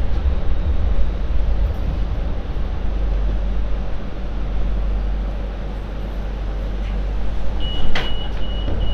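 MTR Light Rail Phase 4 light rail train running, a steady deep rumble from its running gear. Near the end there is a sharp knock and a high electronic beeping starts.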